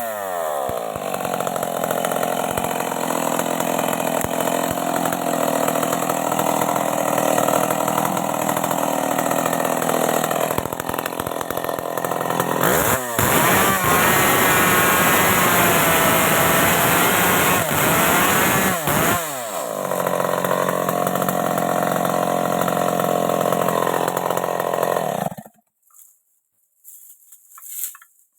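Stihl MS 381 two-stroke chainsaw running at high revs while cutting wood, its pitch dropping back between cuts and wavering under load. It stops abruptly about three seconds before the end.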